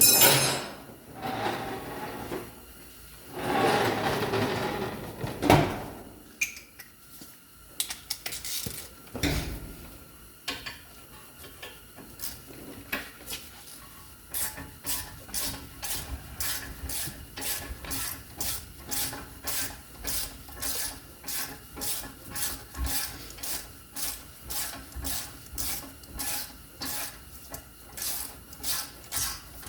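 Metal tools clattering as a socket extension is fitted. Then a hand ratchet clicks in steady short strokes, between one and two a second, backing out a brake caliper bracket bolt.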